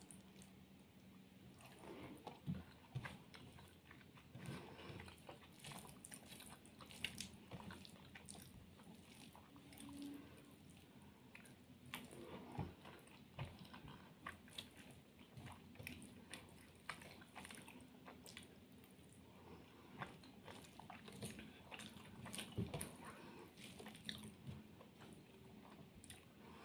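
Faint close-up chewing and mouth sounds of a person eating rice by hand, with soft irregular clicks and smacks.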